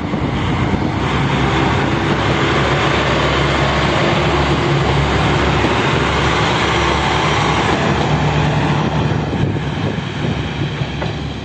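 Passenger train departing and running past close by: a loud, steady rumble that eases slightly near the end as it pulls away.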